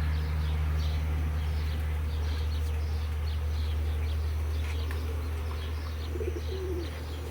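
Small birds chirping over and over above a steady low hum, with a dove-like cooing near the end.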